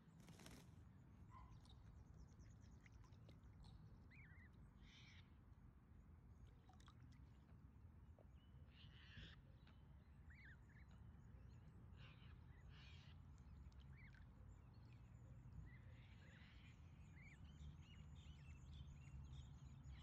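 Near silence: a faint low wind rumble with scattered faint bird chirps.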